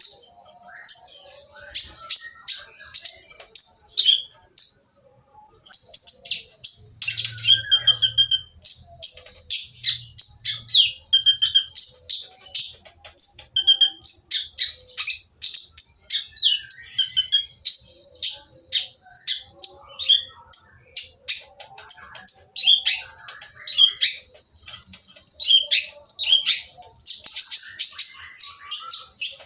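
A kolibri ninja (sunbird) calling in fast, harsh, chattering strings of high chips and short trills, with a brief pause about five seconds in. This is the rough, noisy call used to provoke other male kolibri ninja into singing.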